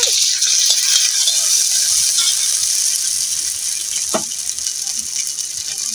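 Food sizzling in hot oil in a metal wok: a steady high hiss that eases off slightly. A brief squeak of the metal ladle against the wok about four seconds in.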